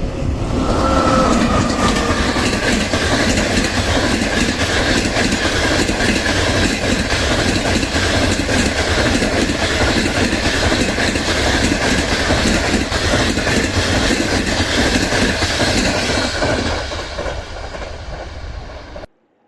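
A train passes close by at speed, its wheels clattering rapidly over the rail joints. It fades over the last couple of seconds, then cuts off suddenly.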